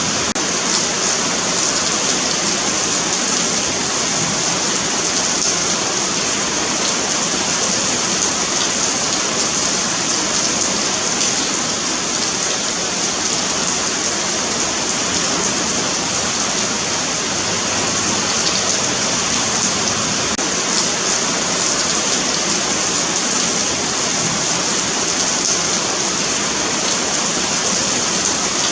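Steady rain falling on a paved sidewalk, a continuous hiss of drops with no let-up.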